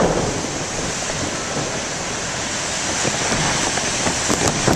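Heavy ocean surf from big storm waves, a steady rushing wash, with wind buffeting the microphone.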